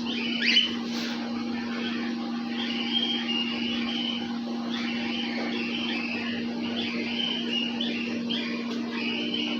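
Cockatiels chirping and chattering in an aviary: repeated short high calls, with one quick upward-sweeping call about half a second in, over a steady low machine hum.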